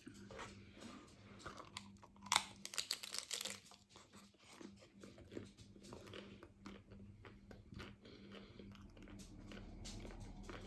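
Crunchy taco shell cracking as it is bitten into, about two seconds in, followed by chewing.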